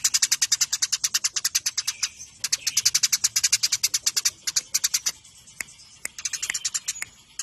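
Eurasian tree sparrows' rapid-fire fighting chatter: sharp chirps at about a dozen a second that break off a little past halfway, then a short lull before a few more quick bursts near the end.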